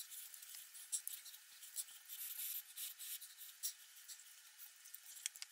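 Fried rice sizzling faintly in a pan, pressed down so its bottom crisps: a thin crackling hiss with scattered small pops.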